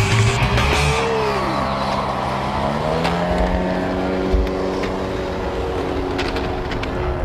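Twin 70mm electric ducted fans of an RC F-22 Raptor jet running, a steady jet-like whine whose pitch rises about two to three seconds in as the throttle is advanced, then holds.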